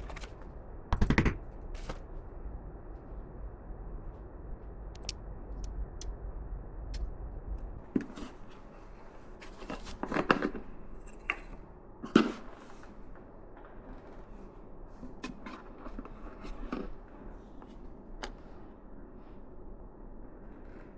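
Irregular knocks, clicks and scrapes, with a low hum that stops about eight seconds in.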